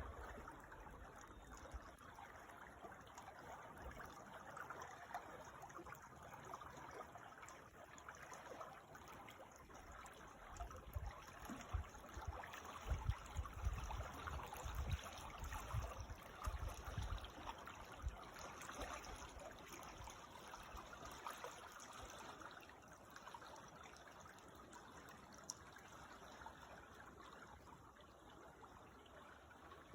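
A creek trickling and babbling: a steady, faint wash of running water. There are low rumbles for several seconds around the middle.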